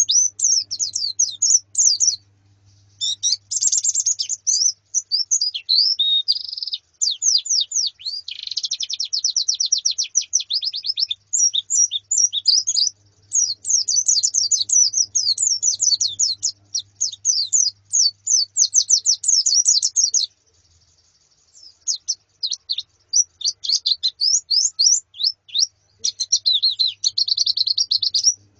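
A flock of white-eyes (pleci) chirping and twittering in rapid, high-pitched trills, almost without a break, with a short pause about 20 seconds in.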